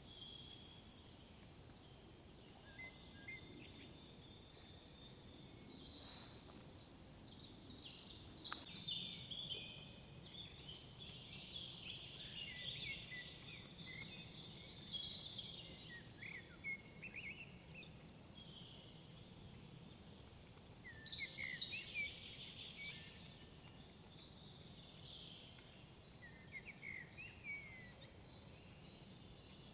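Several songbirds singing: short song phrases and high, thin trills recur every few seconds over a faint, steady background hush.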